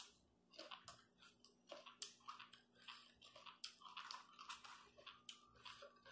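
Quiet close-up chewing of a mouthful of raw greens: soft, irregular crunches and wet mouth clicks, about two or three a second.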